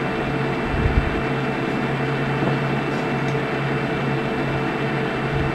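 Steady fan-like hum and hiss with a constant low drone and a few fixed whining tones, picked up through the camera's built-in microphone; a faint knock about a second in.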